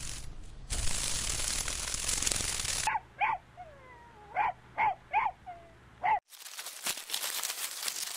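A stretch of steady noise, then about six short, sharp animal calls in quick succession, typical of a dog yelping or barking, then a crackly, noisy stretch.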